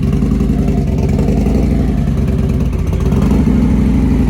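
Harley-Davidson Road Glide's V-twin engine idling close by, a little louder about three seconds in.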